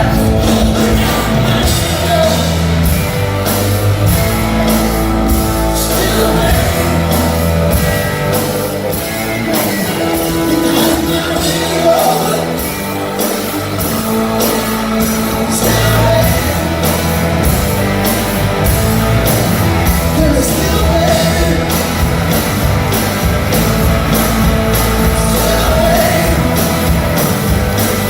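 Live blues-rock band playing loudly with singing over a steady drum beat.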